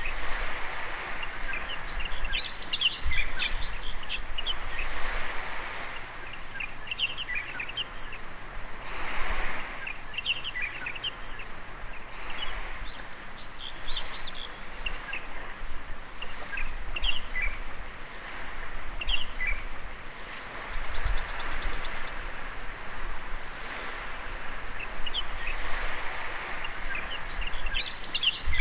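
Small waves washing onto a beach, swelling and fading every several seconds, with birds chirping in short calls over them and one quick trill about two-thirds of the way through.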